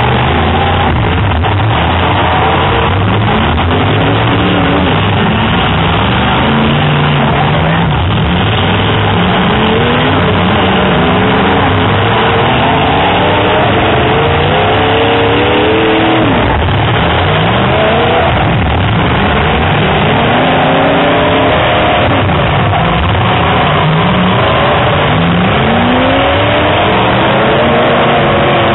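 Several full-size demolition derby cars' engines revving at once, their pitches rising and falling over and over, loud and continuous.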